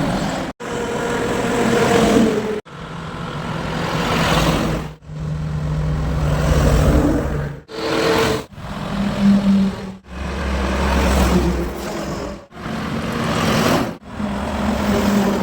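Trucks and other road traffic passing on a highway, engines running and tyres on the road. The sound is chopped into short pieces, breaking off abruptly every one to two and a half seconds.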